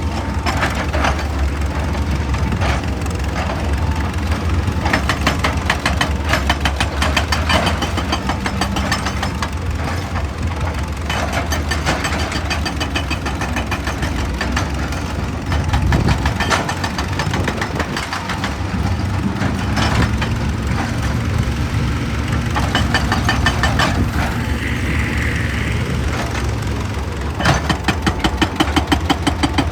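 Excavator's diesel engine running steadily, with several stretches of rapid, closely spaced clattering knocks from the machine working on rock.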